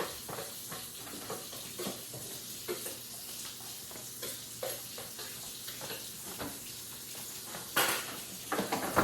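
Kitchen clatter: scattered small clinks and knocks of dishes and utensils being handled over a steady hiss, with one louder knock near the end.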